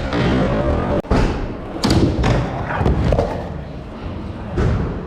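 Skateboard rolling on ramps with a rough wheel rumble, broken by several sharp board impacts of landings and hits against the ramp, about five over a few seconds.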